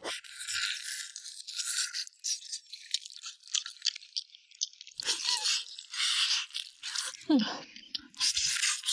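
Eating soft, fall-off-the-bone red-braised pig trotters close to the microphone: irregular chewing, sucking and gnawing sounds. A brief falling vocal sound from the eater comes about seven seconds in.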